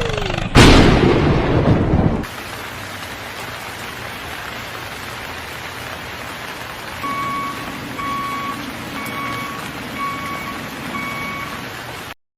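A loud rumble of thunder, then steady rain hiss. From about halfway through, a vehicle's reversing alarm beeps five times, about a second apart, over a low engine hum.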